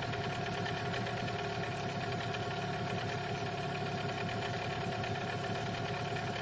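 Boat outboard motor running steadily at half throttle while being run in (break-in).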